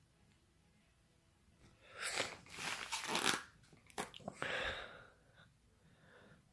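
Packaging being torn open and crunched while unboxing fireworks: a few seconds of loud tearing and crinkling starting about two seconds in, then fading.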